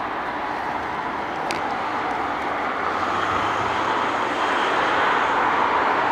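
Jet engines of an Airbus A321 at takeoff thrust, a steady rushing roar that grows slowly louder.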